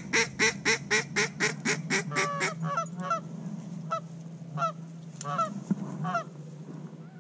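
A hunter's duck call blown in a fast, even run of loud calls, about four a second. It then breaks into softer, scattered notes for a few seconds before stopping.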